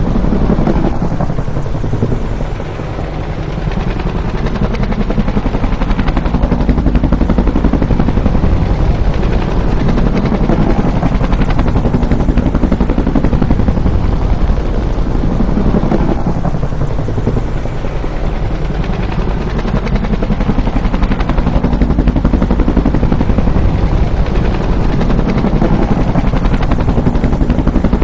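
Bell UH-1 "Huey" helicopter passing by, its two-blade main rotor beating in a fast, continuous chop over the turbine's roar. The sound swells and eases in slow waves, with the pitch sweeping down as it goes by, and it dips briefly a couple of times.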